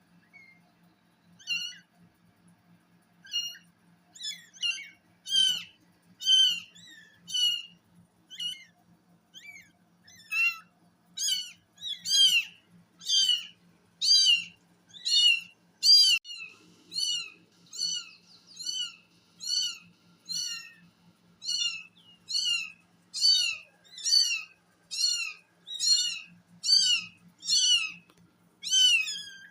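Kitten mewing over and over in short, high-pitched calls, each rising and falling. The calls are sparse at first, then come about once a second and louder from about ten seconds in.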